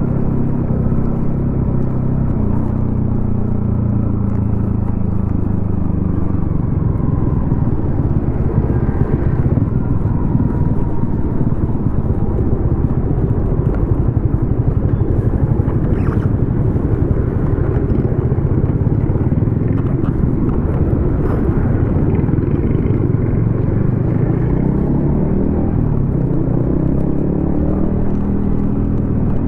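Yamaha XSR155's single-cylinder engine running through a DIY exhaust: its note falls in the first few seconds as the bike slows, runs low and uneven through the middle, then climbs again near the end as it accelerates.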